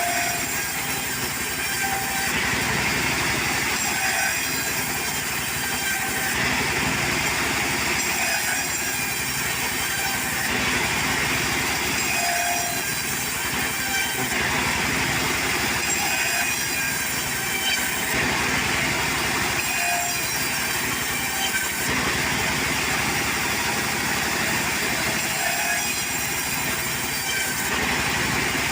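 Portable sawmill running steadily, its saw cutting through a log, the sound shifting slightly about every four seconds.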